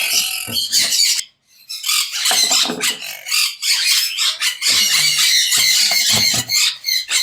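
Many caged parrots screeching and squawking together in harsh, rapid, overlapping calls, with a short break about a second in.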